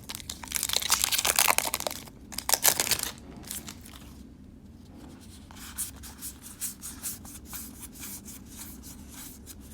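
A booster pack wrapper being torn open and crinkled, loud for about the first three seconds, followed by quieter scattered rustling and light ticks.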